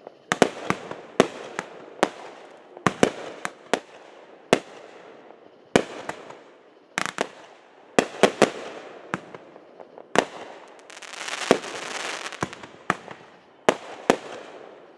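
Consumer fireworks going off in quick succession: sharp bangs every second or so, sometimes two or three close together, each followed by a rumbling echo. About ten and a half seconds in there is a denser two-second rush of noise.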